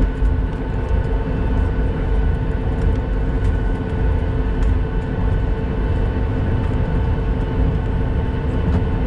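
Steady cabin noise of a Boeing 737 with its jet engines running on the ground: a continuous low rumble with a steady whine of several held tones.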